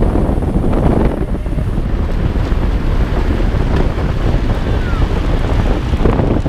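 Wind buffeting the microphone: a loud, steady rumbling noise with no pauses.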